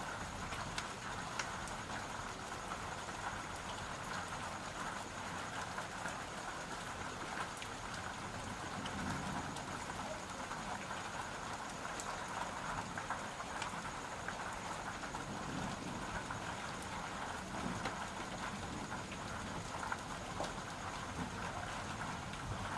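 Steady rain falling, with scattered drops ticking on a hard surface.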